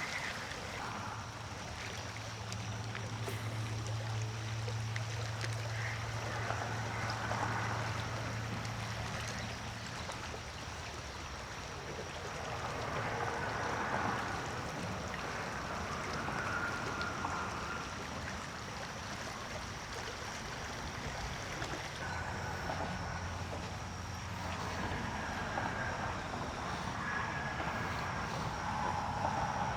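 Shallow creek water running and trickling over a riffle, a steady rushing that swells and eases, with a low steady hum under it for the first several seconds and again near the end.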